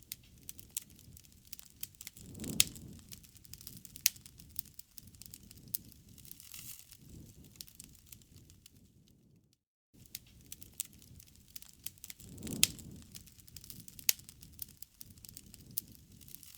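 Wood fire crackling and popping: sharp snaps over a low rumbling hiss. It cuts out for a moment just before the middle, then starts again as a repeating loop.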